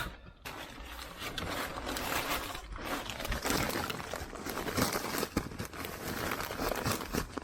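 Dry hay being handled, rustling and crackling continuously with many small crunches.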